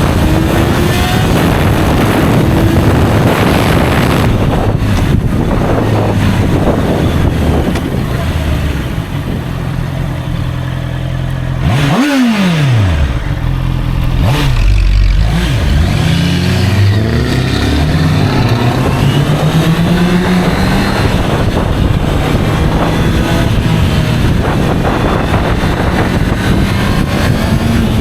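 Honda CBR650R's inline-four engine under way, its revs climbing and dropping again and again as it accelerates and shifts. About twelve seconds in, the revs fall sharply and then climb back up.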